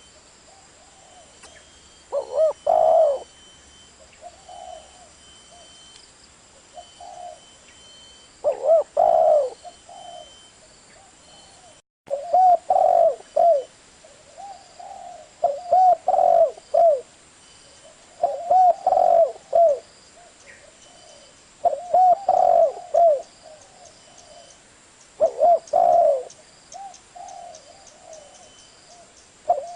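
Spotted dove cooing: phrases of several low coos, repeated every few seconds, with softer single coos in between.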